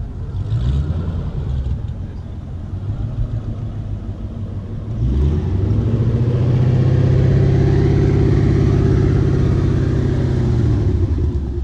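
Car engine revving: a couple of short blips, then about five seconds in it climbs to high revs and holds there steadily for several seconds before dropping off near the end.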